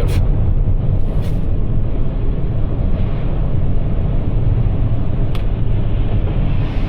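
Steady low rumble inside the cabin of a Toyota RAV4 Prime driving on Blizzak snow tires through snow: tire and road noise with no change in pace. A single faint tick about five seconds in.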